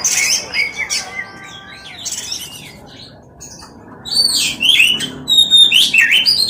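Oriental magpie-robin (kacer) singing a varied run of whistles and chirps, softer for a while in the middle and louder again from about four seconds in.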